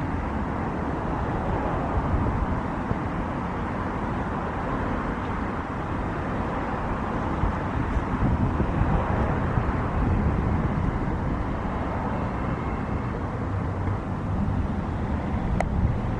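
Steady rumble of distant jet aircraft engines, with wind buffeting the microphone. A single sharp click sounds near the end.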